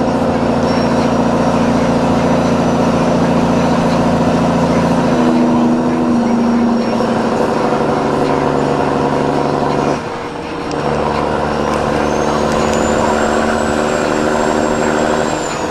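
Dump truck's diesel engine running steadily under way, its pitch shifting about five seconds in and cutting out briefly about ten seconds in before it pulls again.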